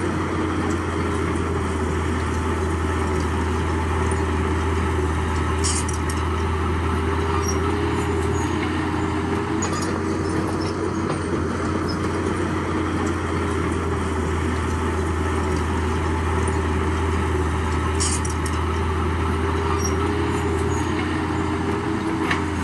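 Heavy earthmoving machine's diesel engine running at a steady speed, a constant low drone, with a few light clicks about six, ten and eighteen seconds in.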